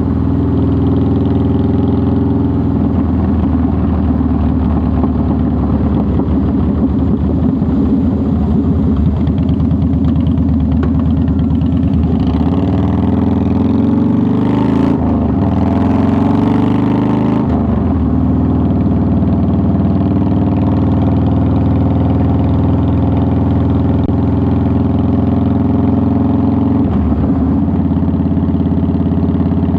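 A 2009 Harley-Davidson Softail Deluxe's air-cooled Twin Cam 96 V-twin engine runs steadily on the road. Around the middle the engine note shifts in pitch. At the same time there is a few seconds of loud rushing noise, and then the engine settles back into a steady note.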